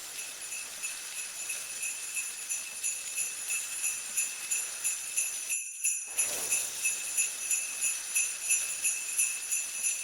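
Sleigh bells jingling in a steady shaking rhythm, with a brief break about five and a half seconds in.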